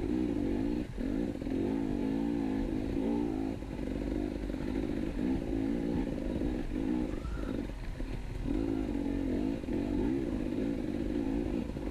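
KTM 250 EXC two-stroke enduro motorcycle engine under way, its revs rising and falling with the throttle, broken by several short let-offs.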